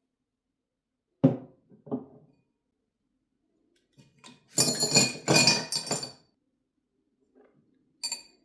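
Hard household objects being handled and set down: two dull knocks, then about a second and a half of clattering and clinking, and one more clink near the end.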